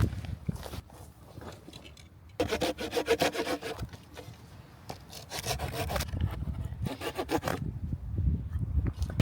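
Wood being sawn by hand, in three spells of quick back-and-forth strokes with short pauses between, the first starting about two seconds in.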